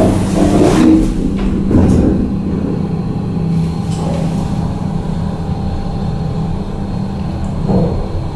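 A MacGregor KONE MiniSpace traction elevator car in motion: a steady low machine hum and rumble. A few knocks and some clatter come in the first two seconds.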